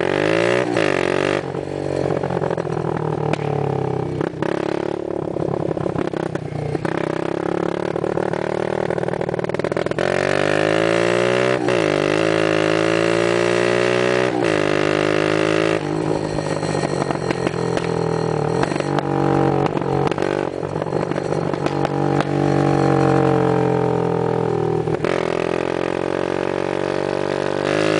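Baja 110 minibike's small single-cylinder engine under way, its pitch climbing and dropping again and again as the throttle is opened and eased off.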